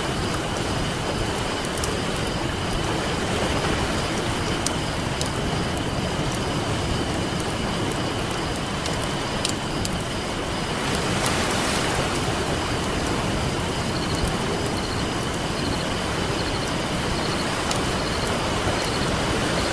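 Ocean surf washing steadily, with a wood campfire crackling in scattered sharp pops over it; a wave swells up a little about halfway through. A faint steady high tone runs under it.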